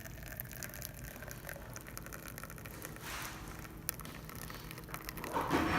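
Espresso from a La Pavoni Europiccola lever machine streaming and pattering into a cup during a test shot. A louder hiss builds near the end.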